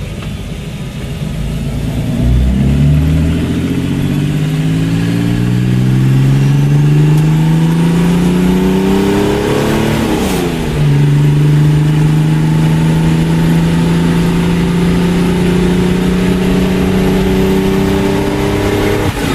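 1982 Volvo diesel engine pulling the car away, its pitch rising steadily, then dropping sharply about halfway through at a gear change on the manual gearbox and climbing again more slowly.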